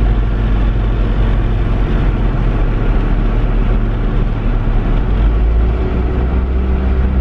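Car engine and road noise heard from inside the car while driving, a steady low hum whose engine note shifts slightly about six seconds in.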